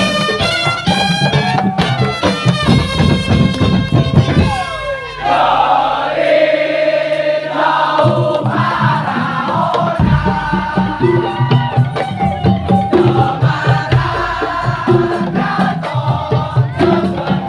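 Madurese tong-tong (daul) ensemble playing: wooden slit drums and drums beat a fast rhythm under a bright melody. About four and a half seconds in, after a falling glide, the drums drop out and the melody carries on alone. The percussion comes back in between about eight and ten seconds in.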